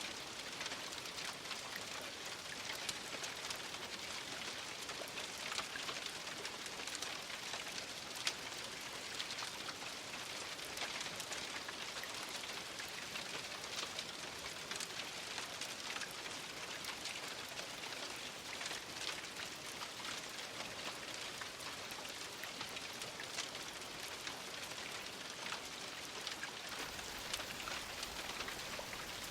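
Steady rain falling on a surface, a dense hiss with many individual drops pattering through it.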